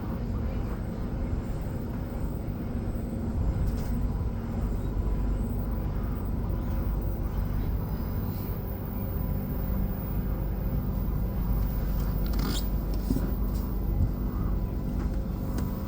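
Electric commuter train running at speed, heard from inside the carriage: a steady rumble of wheels on track under a constant motor hum, with a brief clatter about twelve and a half seconds in.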